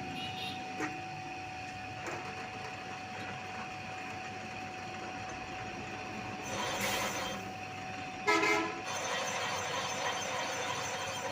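Workshop machinery running with a steady whine, with a few light clicks and a short, loud horn-like toot about eight seconds in.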